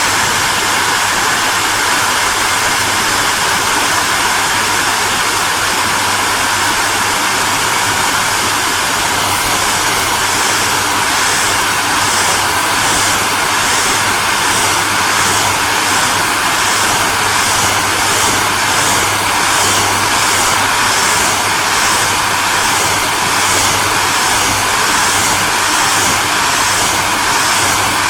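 Electric hairdryer running continuously: a steady rushing hiss of blown air over a low motor hum. From about ten seconds in, a faint regular pulsing runs through the high part of the hiss.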